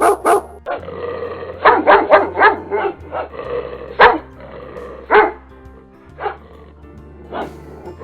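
Dog barking: a quick run of barks in the first few seconds, then single barks about a second apart, over steady background music.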